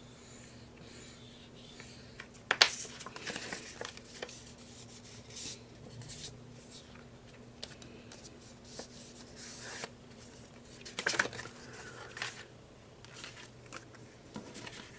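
Sheets of printed paper being handled and shuffled, rustling and crackling in irregular bursts, with a sharp tap about two and a half seconds in and another flurry around eleven seconds.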